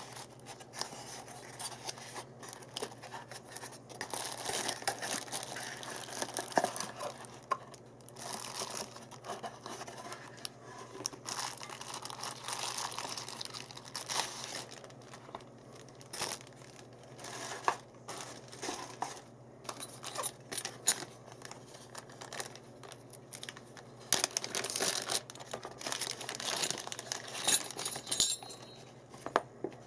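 Packaging being handled: plastic and paper crinkling and tearing in irregular rustles, with scattered sharp clicks.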